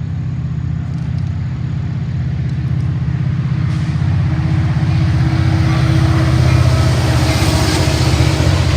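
Diesel locomotive engine running close by: a deep, fast-pulsing throb that slowly grows louder.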